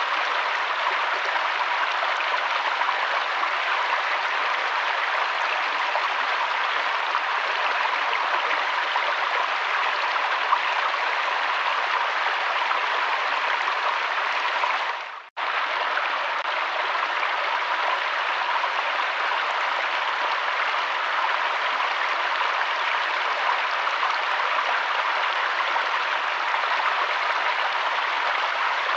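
Steady rush of flowing river water. About halfway through it briefly drops away to near silence, then comes straight back.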